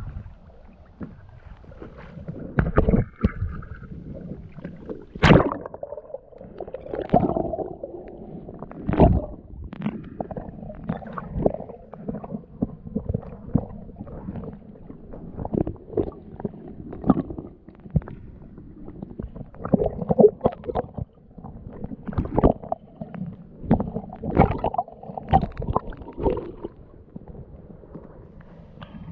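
Water splashing and sloshing against a kayak, with irregular close knocks and bumps as a swimmer moves about it in the water.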